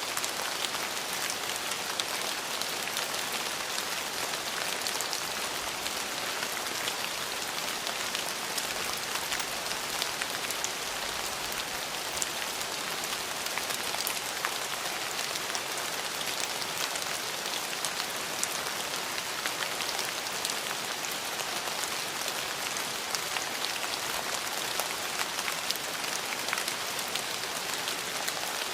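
Steady rain falling on a hard surface, an even hiss made of many fine drop ticks.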